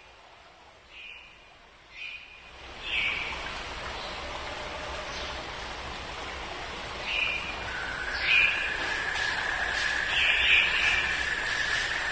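Outdoor country ambience: a bird calls in short repeated notes over a steady hiss of background noise that swells up about two and a half seconds in. A steady high tone joins in for the last few seconds.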